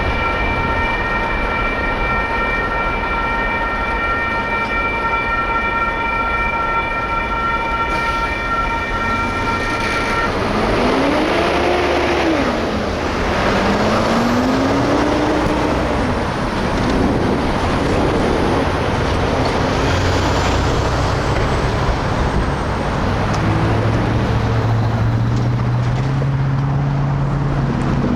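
Railroad crossing warning bell ringing steadily, then stopping abruptly about a third of the way in as the crossing clears. Road traffic noise follows, with motor vehicles pulling away across the tracks, their engines rising in pitch, near the end.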